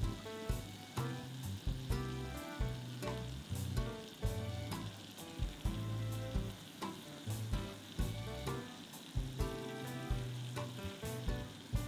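Yeast donuts deep-frying in a shallow pan of oil, a steady sizzle, with background music that has a bass line and a light beat.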